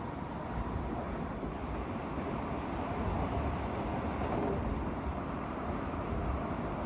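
Steady rumbling noise of a moving train.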